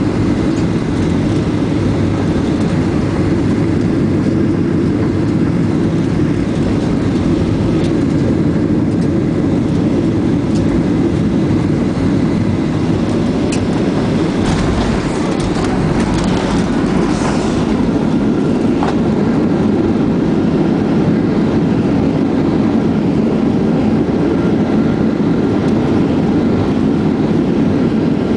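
Steady, loud rumble inside the cabin of a Boeing 737-700 (CFM56 engines and airflow), with a few faint clicks and rattles around the middle.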